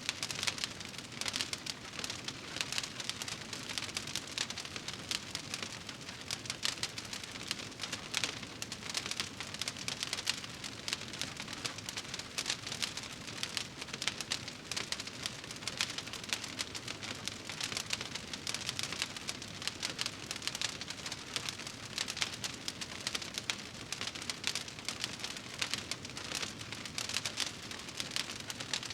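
Wood fire burning in a fireplace, crackling steadily with many small pops and snaps.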